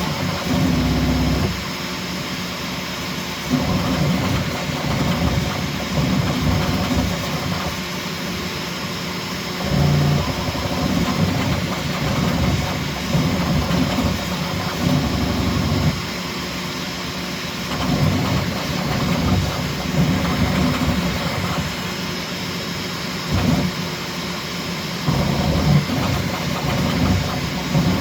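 Bambu Lab X1C 3D printer printing at high speed: its motors hum in pitches that change every second or so as the toolhead moves, over a steady faint high whine.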